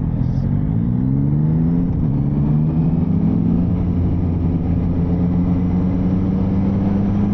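Motorcycle engine accelerating: its pitch rises, drops back around two seconds in as it shifts up a gear, rises again, then holds steady at cruising speed, with road and wind noise throughout.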